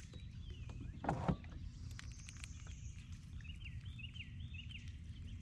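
A single sharp knock about a second in, over a steady low rumble. Birds call with a run of repeated chirps in the second half.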